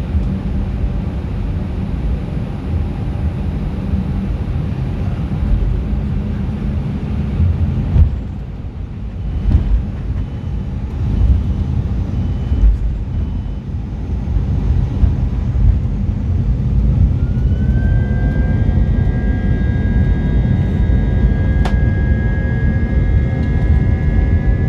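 Airbus A320 cabin sound: a steady low rumble with a few knocks in the middle, then about two-thirds of the way through the engines' whine rises in pitch and holds high and steady as thrust comes up.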